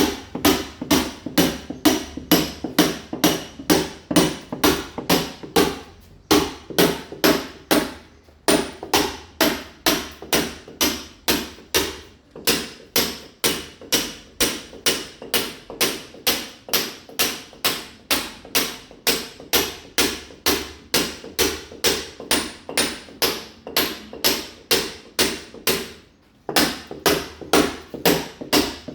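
A mason's hammer striking a masonry wall, chipping the surface to key it for ceramic tile. It is a steady run of sharp blows, about two to three a second, broken by a few brief pauses.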